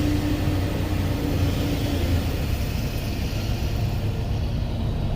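Semi truck's diesel engine running steadily with a low rumble, with a lighter hiss that fades out about three seconds in.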